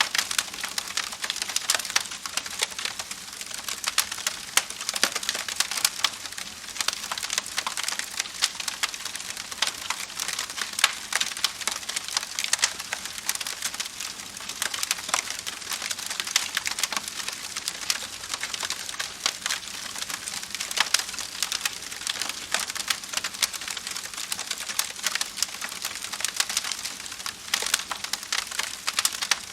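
Wood campfire crackling, with a dense run of small pops and snaps over a steady hiss.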